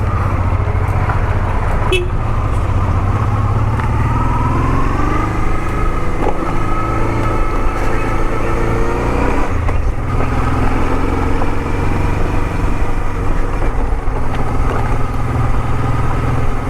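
Honda Transalp 650's V-twin engine running with a steady low rumble. From about four seconds in its pitch climbs gradually, drops suddenly near ten seconds, then holds steady.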